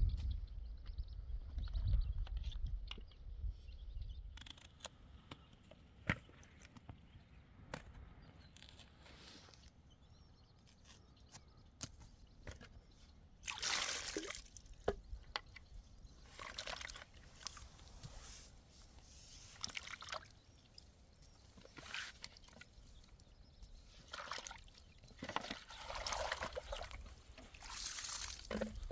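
Water sloshing and trickling in short bouts, with scattered small clicks and knocks.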